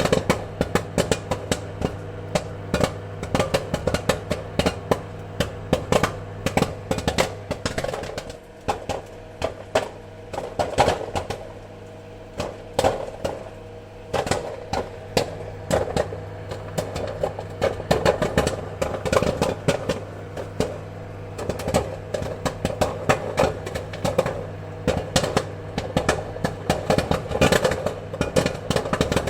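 Popcorn kernels popping in quick, irregular succession, several pops a second, with a few spells of fewer pops, over a steady low hum.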